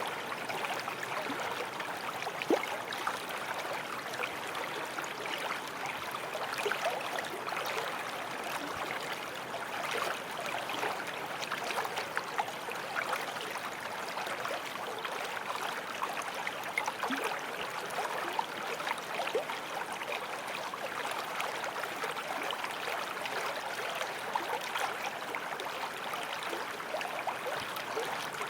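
Small forest stream flowing over stones: a steady babble of running water, dotted with small splashes and gurgles.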